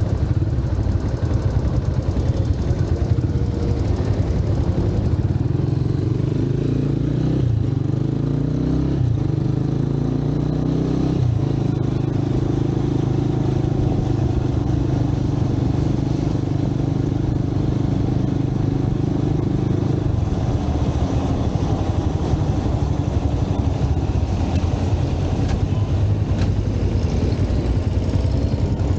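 Motorcycle engine running on the move as the bike rides through city streets. Its pitch shifts abruptly a few times between about 7 and 11 seconds in, then holds steady.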